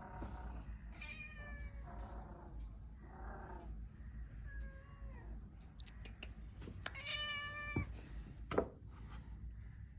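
A cat meowing again and again, about six short calls, several falling in pitch, the longest and loudest about seven seconds in. A few sharp clicks come between the calls, over a steady low hum.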